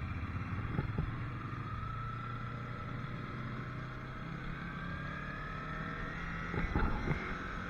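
Yamaha R3's parallel-twin engine running under way, its pitch rising slowly as the bike gathers speed, with wind noise. Brief knocks come about a second in and again near the end.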